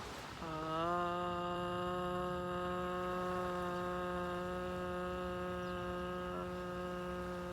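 A woman's voice chanting one long 'ah' on a single steady low pitch. It begins about half a second in with a slight upward slide, then is held unbroken as a meditative 'ah' chant.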